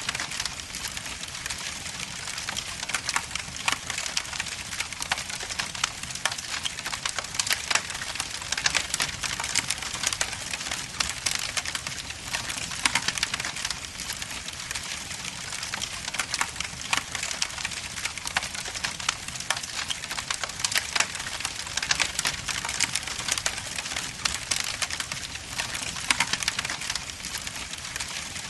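Wood logs burning in a fireplace, with constant dense crackling and snapping over a steady hiss.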